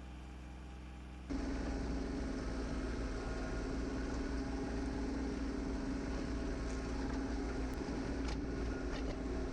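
Kubota L3200 tractor's diesel engine running steadily, stepping up sharply in loudness a little over a second in, with a few light knocks near the end.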